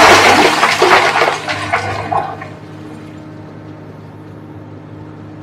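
Loose rock and earth crashing and pouring for the first two seconds or so, then only the steady running of a Komatsu PC350LC excavator's diesel engine.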